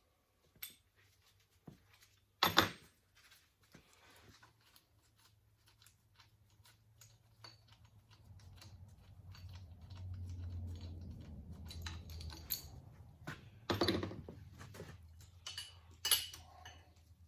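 Metal clinks and clanks of hand tools and loose parts being handled while a Case 188D engine block is stripped down, the loudest about two and a half seconds in and more near the end. A low hum swells and fades in the middle.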